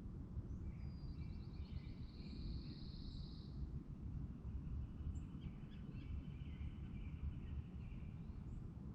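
Songbirds singing over a steady low outdoor rumble. About a second in comes a fast, high trill lasting about three seconds; past the middle, a lower song with short rapid notes follows.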